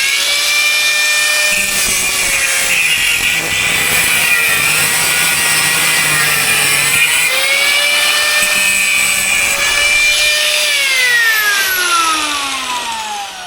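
Electric angle grinder cutting through about 10 mm steel plate. The motor whine comes up to speed at the start, over a harsh hiss of the disc in the steel, and its pitch sags twice as the disc bites. Near the end the pitch falls steadily as the grinder is released and spins down.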